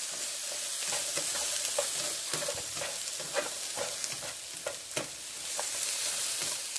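Sliced bell peppers sizzling in olive oil in a skillet, being sautéed until they brown. Irregular scrapes and taps of stirring against the pan run through the steady sizzle.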